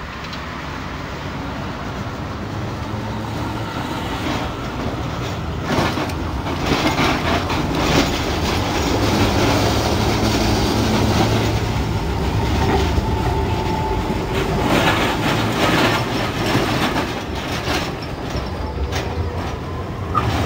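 Historic tram car running along the track, with a steady low hum and the clatter of wheels over rail joints. It grows louder over the first few seconds.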